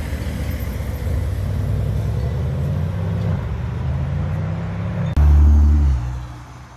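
A Mercedes C-Class sedan's engine accelerating away, its pitch climbing steadily. About five seconds in it switches abruptly to a Nissan GT-R's twin-turbo V6 giving a much louder, deep burst of acceleration that lasts under a second and then fades away.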